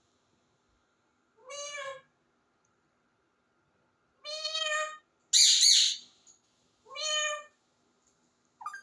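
Pet parrot calling: three drawn-out, meow-like calls, with a much louder harsh screech after the second and a short call at the very end.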